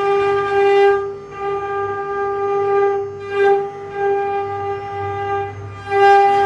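Mini CNC router's spindle motor running with a steady high whine, its level dipping briefly a few times.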